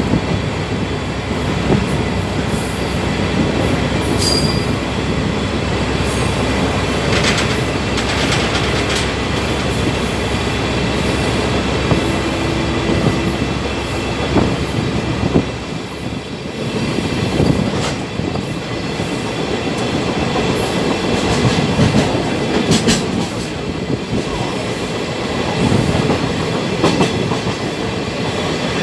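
Sagano trolley train carriage running along the track: a steady rolling rumble and rattle from the wheels, with scattered clacks over rail joints and short, high wheel squeals now and then.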